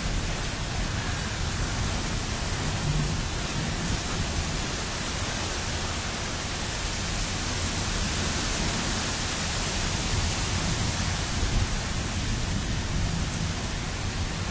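Steady noise of a thunderstorm: a dense hiss of rain and wind with a low rumble underneath, and no distinct thunderclap.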